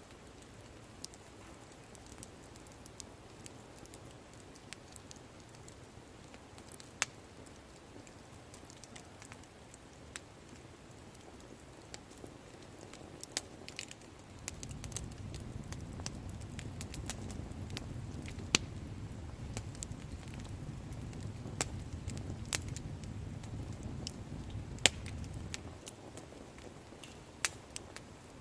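Wood fire crackling, with irregular sharp pops and snaps. From about halfway until near the end, a low rumble runs under the crackle.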